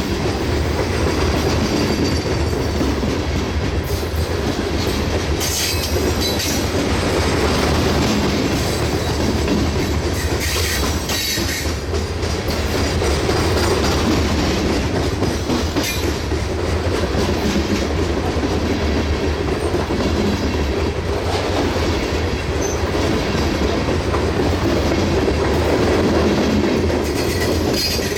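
Loaded coal train rolling past, its steel wheels clicking steadily over the rail joints with a continuous rumble. Brief high-pitched wheel squeals come about six and eleven seconds in, and again near the end.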